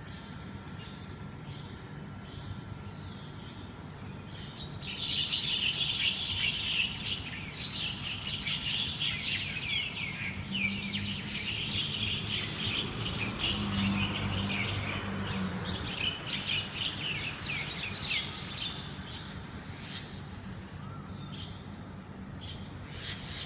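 Oriental magpie-robins calling during a fight: a dense run of rapid chirps and chattering notes starts suddenly about five seconds in and goes on for roughly fourteen seconds before dying down. A steady low hum runs underneath.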